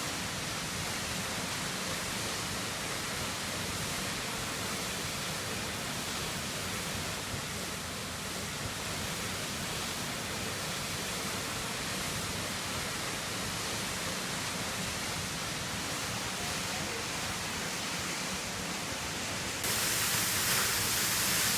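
Waterfall rushing: a steady, dense roar of falling water that turns suddenly louder and brighter about twenty seconds in.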